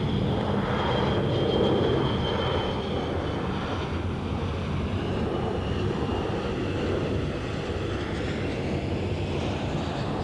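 Jet airliner engines running loud and steady, a broad rumble with a thin high fan whine that slowly falls in pitch; loudest about two seconds in.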